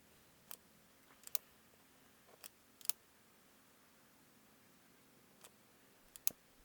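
Scattered sharp clicks and taps of small hand tools and wiring being handled, about six spread irregularly, the loudest near the end.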